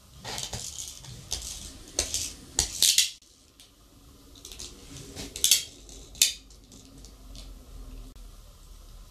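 Irregular clinks and rattles of small hard objects being handled, loudest in clusters a couple of seconds in and again after five seconds.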